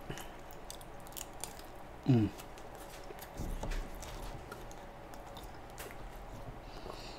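Close-up mouth sounds of a man chewing a bite of pizza: small wet clicks and smacks, with a short hummed sound falling in pitch about two seconds in.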